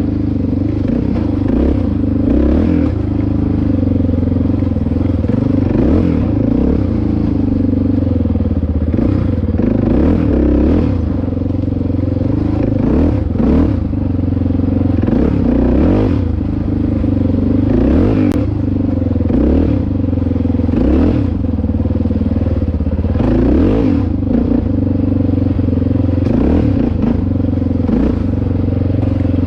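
Dirt bike engine running under changing throttle while riding, its pitch rising and falling over and over, with some rattle.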